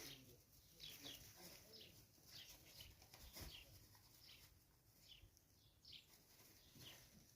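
Faint, short, high chirps repeating about once or twice a second, each dropping slightly in pitch, like small birds chirping.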